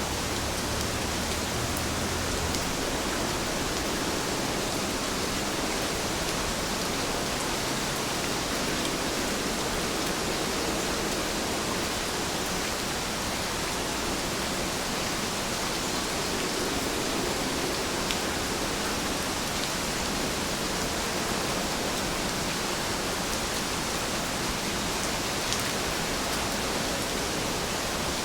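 Steady rainfall, an even hiss of rain with a few faint drop ticks. A faint low hum sits under it for the first couple of seconds.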